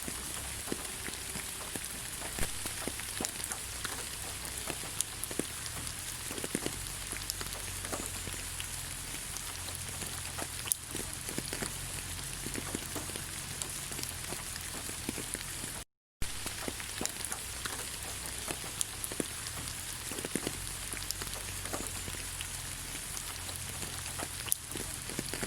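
Steady rain falling on leaves, a continuous patter with many separate drops ticking through it. The sound cuts out completely for a split second about two-thirds of the way through.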